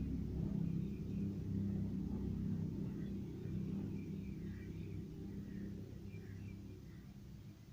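Low, steady engine rumble of a motor vehicle, gradually fading away.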